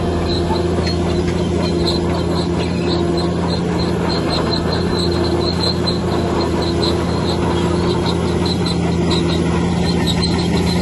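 Bulldozer's diesel engine running at a steady pitch, with a short high metallic squeak repeating about two to three times a second.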